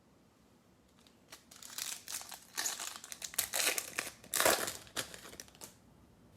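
Foil wrapper of a baseball trading card pack crinkling and rustling as it is handled and opened, in an irregular run of crackles lasting about four seconds.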